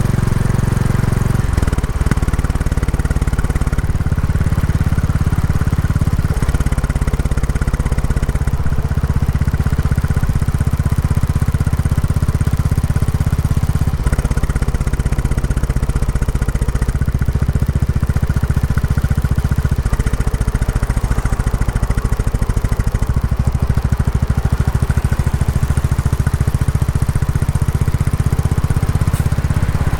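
Royal Enfield Classic 350's single-cylinder engine running through its stock exhaust while riding, a steady low engine note. Its pitch shifts a few times, with a short drop about two seconds in.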